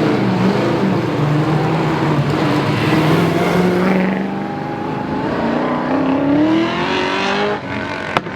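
Rally car engine running, its pitch rising steadily for a couple of seconds past the middle, with a sharp click near the end.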